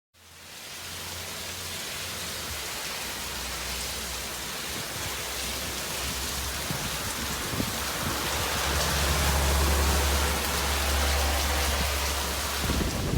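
Steady rain from a tropical storm, an even hiss that fades in at the start and slowly grows louder, with a low rumble underneath.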